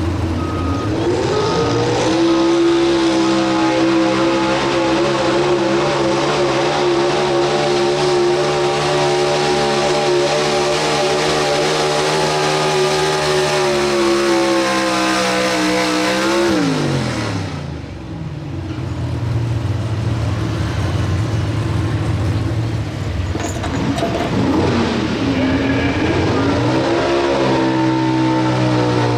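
Pulling truck's engine at wide-open throttle for about fourteen seconds, its pitch steady and high, then dropping away sharply as the throttle is let off. It runs low for a few seconds, then revs up and back down once more near the end.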